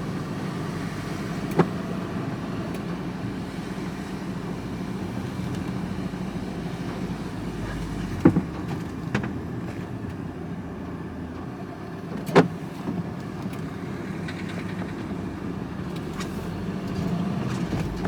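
Van driving, with steady engine and road noise inside the cab. Sharp knocks stand out a few times, about a second and a half in, twice around eight to nine seconds, and once about twelve seconds in.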